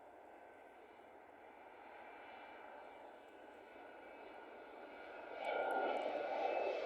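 Airliner engines growing steadily louder as the plane approaches, with a steady whine of several tones over the rushing noise, then a sudden jump in loudness about five seconds in.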